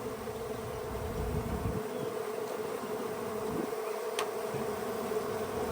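A honeybee colony buzzing, a steady massed hum of many bees.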